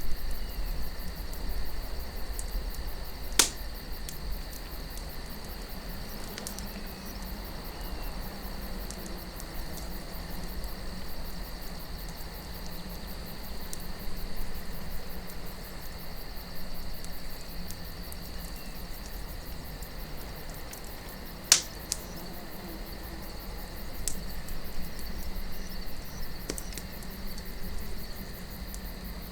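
Campfire crackling, with scattered small snaps and two loud sharp pops, one a few seconds in and one about two-thirds of the way through. Under it runs a low wind rumble and a steady high insect chirring.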